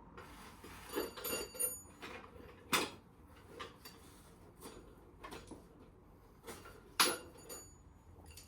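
Light metal clinks and taps, a few ringing briefly, as pushrods are drawn out of a stripped classic Mini engine and handled; the sharpest clinks come about three and seven seconds in.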